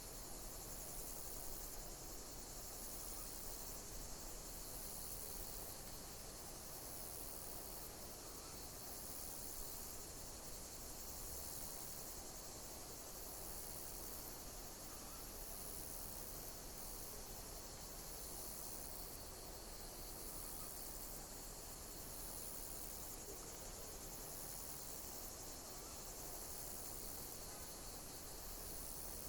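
Insects chirping: a steady high-pitched hiss with high pulses repeating about once a second.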